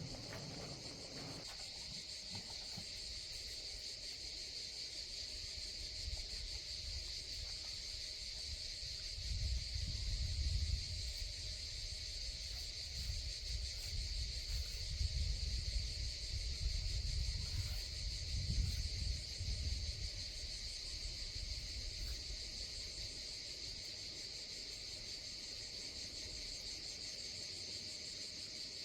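Steady, high-pitched chorus of summer insects such as crickets or cicadas, running without a break. A low rumble swells in and out for several seconds in the middle.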